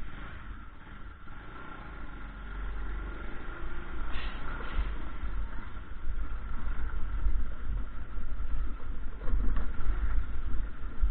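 Motorbike engine running on the move, with a steady whine and a low rumble that swells and fades.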